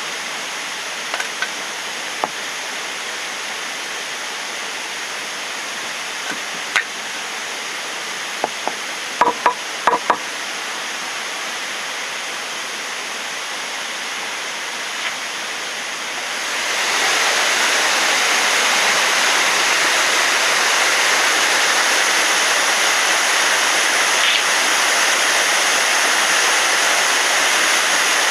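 Waterfall rushing steadily, with a few light clicks or knocks in the first ten seconds; about two-thirds of the way in the rush grows clearly louder and brighter.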